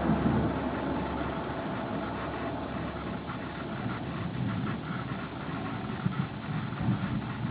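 Thunder rumbling low and irregularly under a steady noisy wash of storm sound. A faint low hum drops out about a second and a half in.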